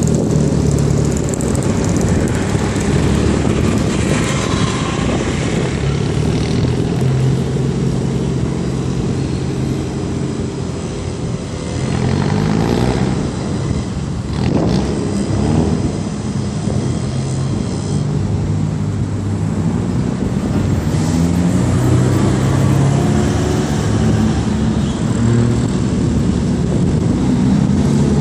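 Sports car engine revving up and down again and again as the car is driven hard around cones, over a steady rush of tyre and wind noise.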